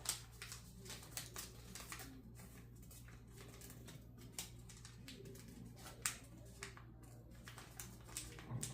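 Origami paper being handled as a fold is opened up and flattened: irregular small, sharp paper crinkles and clicks, over a low steady hum.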